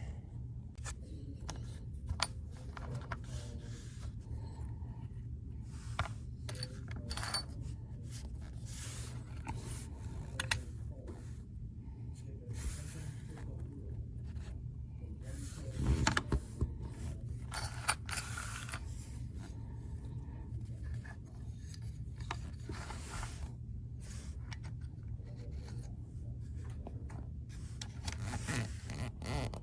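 Small clicks, taps and scrapes from a throttle body being opened up by hand, its plastic and metal parts handled, over a steady low hum. A louder clatter comes about sixteen seconds in.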